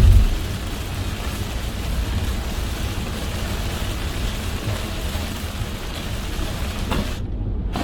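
Heavy rain falling on a moving car, a steady hiss over a low road and engine rumble. A low thump comes right at the start, and the hiss cuts out for about half a second near the end.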